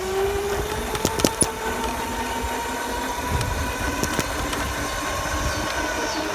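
Dirt bike running while being ridden, its engine note holding nearly steady and slowly rising, over a low rumble, with a couple of sharp clicks about a second in.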